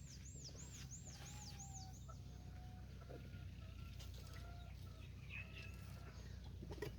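Faint chickens clucking at a distance, with a small bird's quick run of high arching chirps, about four a second, that stops about two seconds in.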